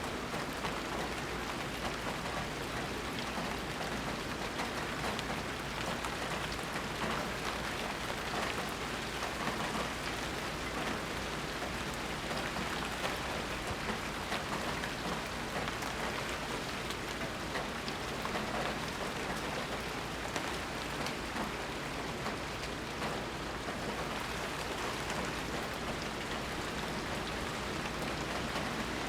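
Steady rain falling, a dense even hiss of drops pattering on surfaces, with no thunder.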